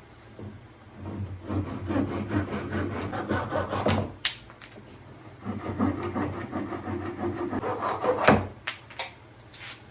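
Hand saw cutting through the end of a wooden wing spar to the dihedral angle, in two bouts of quick back-and-forth strokes with a pause between. A sharp knock comes near the end of the second bout.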